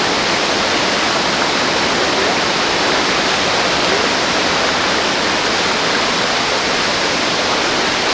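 Waterfall heard close up, within its spray: a steady, loud rush of falling water.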